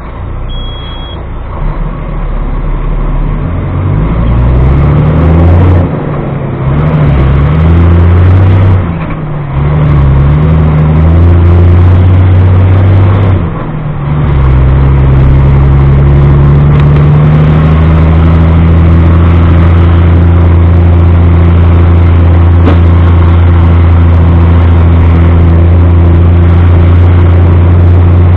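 Truck engine heard from inside the cab, pulling away and climbing in pitch, dropping back three times as it shifts up through the gears, then running steadily at cruising speed.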